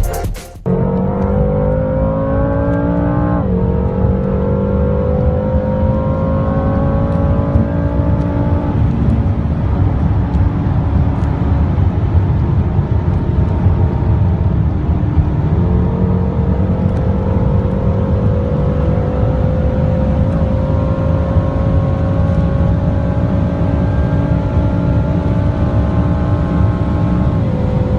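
A BMW M6's 4.4-litre twin-turbo V8 at full throttle on a high-speed run: the engine note climbs, drops at an upshift about three seconds in, then rises slowly and steadily in a tall gear for the rest, dropping again near the end. A steady low rush of road and wind noise runs underneath.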